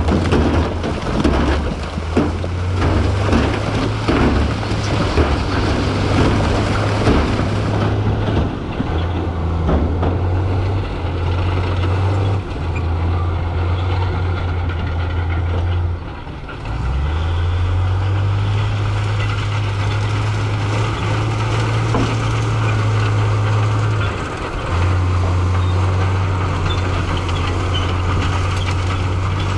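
Heavy earthmoving machine's diesel engine running under load, its low drone dropping out briefly and resuming several times. A rough crackling clatter rides over the engine for the first eight seconds or so.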